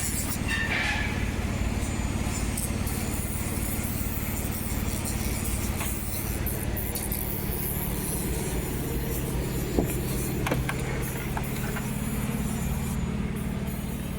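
Truck engine idling steadily, a low even hum, with two short clicks about ten seconds in.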